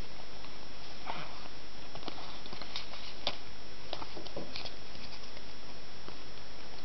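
Booster pack and trading cards being handled: scattered light crinkles and taps over a steady hiss.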